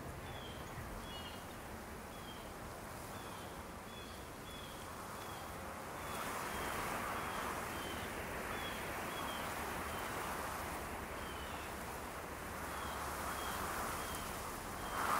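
Outdoor forest ambience: a small bird gives short high chirps every second or so, over a soft rushing noise that swells and fades, growing louder from about six seconds in.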